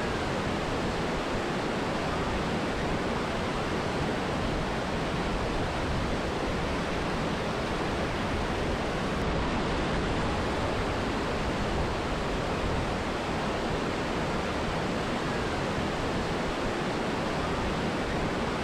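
Steady rushing of a mountain river and waterfall, an even roar of water with no break or change.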